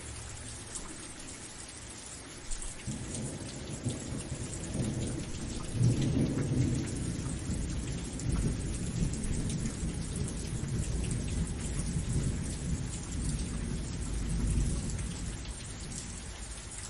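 Steady rain falling, with a long rumble of thunder that comes in about three seconds in, is loudest a few seconds later, and dies away near the end.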